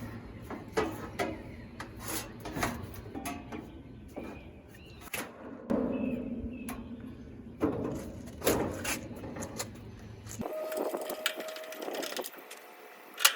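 Irregular metallic knocks and clatter as the AC condenser's fan-and-grille top is handled and set back onto the unit.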